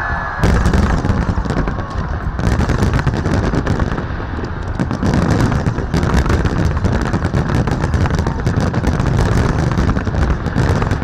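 Large aerial fireworks display: a rapid barrage of shell bursts and crackling over a continuous low rumble, starting suddenly about half a second in.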